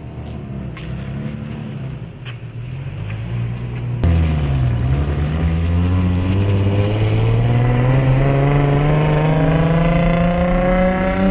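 Car engine accelerating hard: about four seconds in it gets suddenly louder, its pitch dips briefly, then climbs steadily for about seven seconds as the engine revs up.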